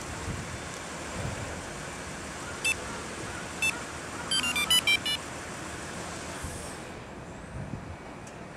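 Nissan E52 Elgrand idling steadily after a remote engine start. Two short electronic beeps about a second apart, then a quick run of beeps stepping between different pitches.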